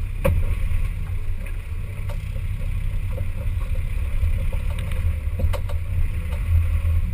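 An off-road 4x4's engine running with a steady low rumble, with scattered knocks and clicks throughout.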